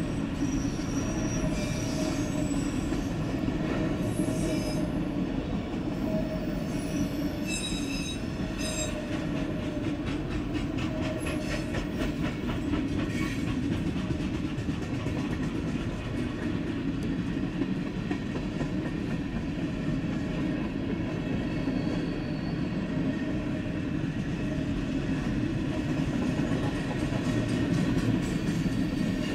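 Long Norfolk Southern freight train of mixed cars rolling past: a steady rumble of wheels on the rails, with high-pitched wheel squeal coming and going in the first third.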